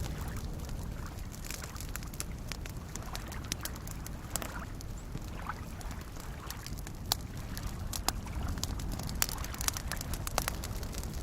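Campfire crackling, with scattered sharp pops that come more often in the second half, over soft lake waves lapping as a steady low wash.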